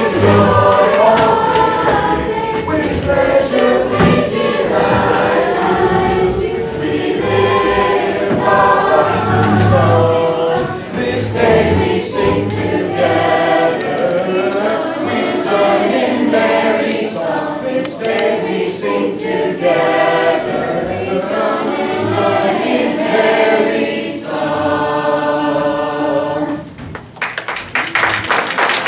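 A choir singing a song with many voices together, ending on a long held chord. Audience applause starts right after the song ends, near the end.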